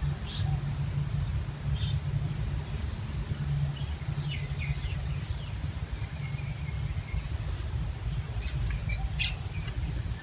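Birds chirping off and on, short high calls scattered through, over a steady low hum.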